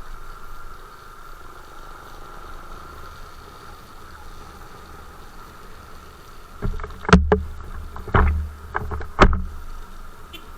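Steady motorcycle riding noise: a low hum with a thin steady whine. About two thirds of the way in there is a run of about five loud, sudden knocks and low rumbles, such as bumps or wind buffeting on the microphone.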